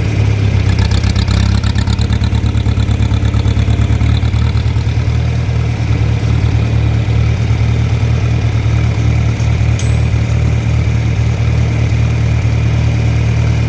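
John Deere 3010 tractor engine running steadily while the tractor moves off in fifth gear, with an even, fast pulse from the engine's firing. A short click comes about ten seconds in.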